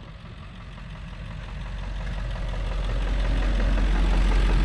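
Tow truck's engine running, growing steadily louder as the truck draws near.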